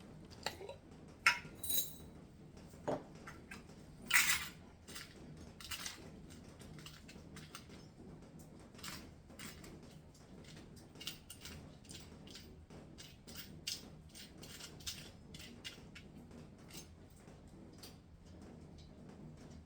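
Small hard objects clicking and clinking as they are handled: a few louder clinks in the first five seconds, then a long run of lighter, irregular clicks.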